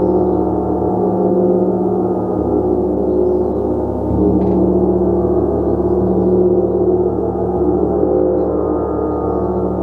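A gong played as a continuous wash of sound: a dense cluster of ringing tones held at a steady level, with the low hum shifting every few seconds as it is struck again.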